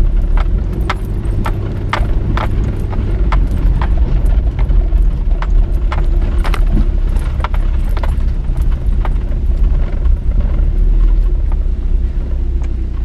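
Car driving slowly, heard from inside the cabin: a steady low engine and road drone with frequent sharp knocks and rattles, about two or three a second.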